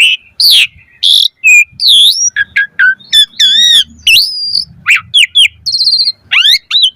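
Asian pied starling (jalak suren) singing a rapid, varied song. It runs loud whistles, rising and falling slurs and short chirps, with a buzzy trill about six seconds in.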